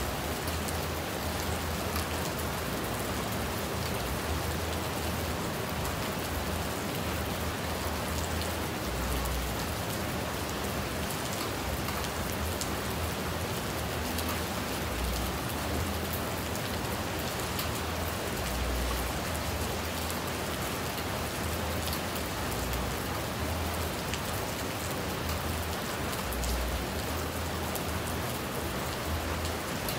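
Steady rain falling on a small stream, an even hiss with no break, and a brief low rumble now and then.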